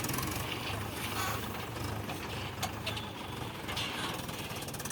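Mahindra tractor's diesel engine running steadily, a low drone with a few short knocks.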